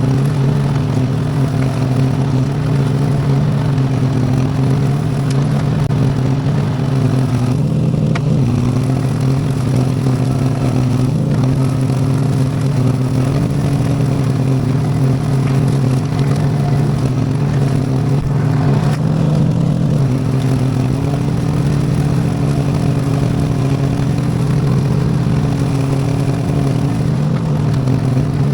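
Tractor's V-twin Briggs & Stratton engine running steadily at working speed while mowing with a bush hog, its pitch shifting slightly a few times as the load changes.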